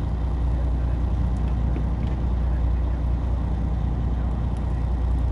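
A small fishing boat's engine running steadily, a low drone with noise from the hull and water over it.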